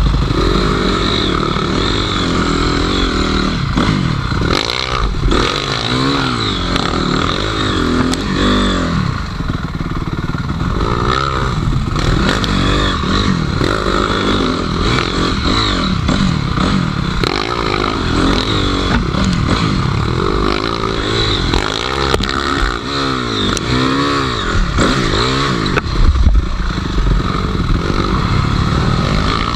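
Enduro dirt bike engine revving up and down over and over as the bike is ridden off-road, the pitch rising and falling every second or two.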